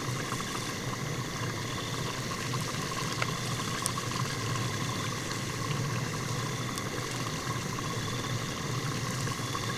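A steady, even rush of water with no break, and a few faint clicks in the middle.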